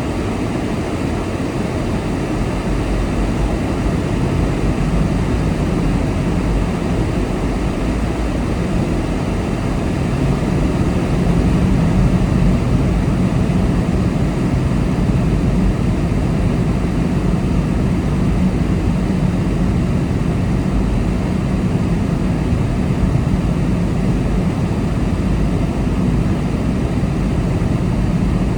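Car driving at speed: a steady drone of tyres on the road and the engine, getting a little louder about ten seconds in.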